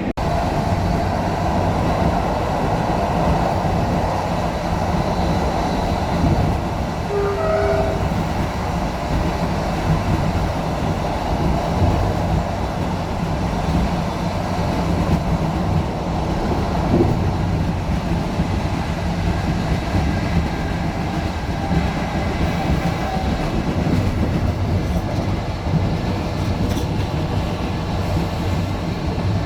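Passenger train in motion: a steady rumble and rattle of the railway carriage running on the rails.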